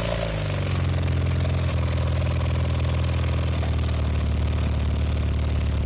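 1982 Honda CM450c's parallel-twin engine running steadily on its stand; its revs ease down slightly about half a second in and then settle to an even idle.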